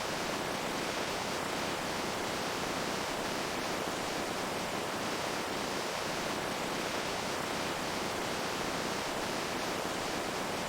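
Running water making a steady, even rushing sound with no change in level.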